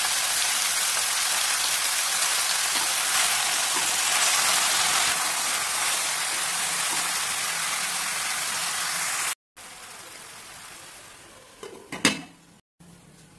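Vegetables sizzling steadily in hot oil in a pan. The sizzle cuts off suddenly about two-thirds of the way through, and near the end a glass lid is set on the pan with a single sharp clink.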